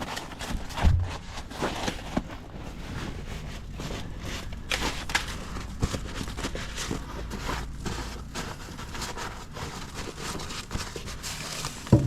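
Packed snow being scraped and knocked loose from a pickup truck by hand: irregular scraping, crunching and knocks over a steady low hum.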